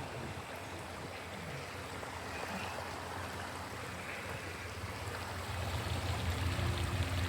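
Floodwater running along a street, a steady rushing like a stream. A low rumble grows louder near the end.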